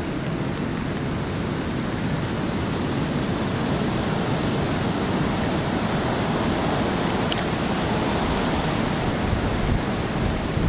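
Hurricane Sandy's storm wind blowing, a steady loud rushing noise with no let-up. A few faint, short high chirps sound over it.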